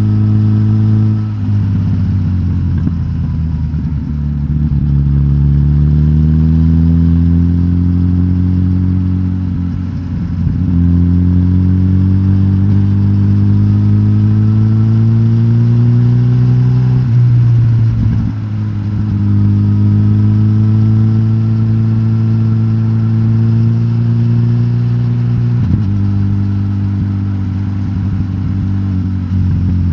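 Suzuki GSX-S1000GT's inline-four engine, decatted and breathing through the stock exhaust, pulling under way. Its pitch climbs steadily for several seconds, then drops sharply, about four times, like a run up through the gears.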